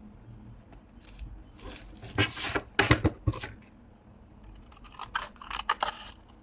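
Scissors snipping through paper in two runs of quick cuts, one in the first half and a lighter one near the end.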